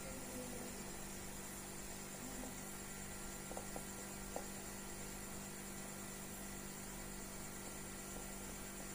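Steady electrical mains hum over a low hiss, with a few faint clicks a little before the middle.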